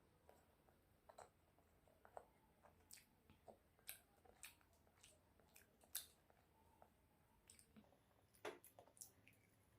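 Faint close-up chewing of fried fish: scattered short mouth clicks and smacks, with a louder one about six seconds in and a cluster near the end.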